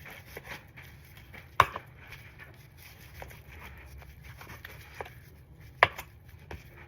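Butcher knife slicing through raw meat and fat with quiet scraping strokes. Two sharp knocks stand out, about four seconds apart.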